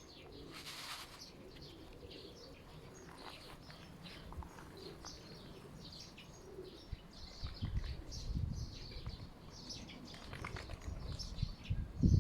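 Small birds chirping, with many short high calls throughout. Low rumbling thumps come in twice, in the middle and near the end.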